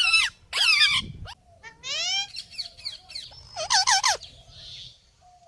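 Parrot giving a quick run of squawks and whistled calls, each sliding up or down in pitch. The calls are loudest at the start and again about four seconds in, then trail off.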